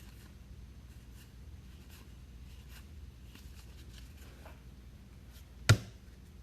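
Trading cards being handled and slid against one another, faint scratchy rustling, with one sharp knock a little before the end.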